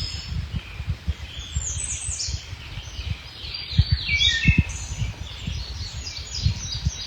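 Several songbirds singing, a busy mix of short, bright chirps and quick trills that thickens about four seconds in. Underneath runs an uneven low rumble of wind buffeting the microphone.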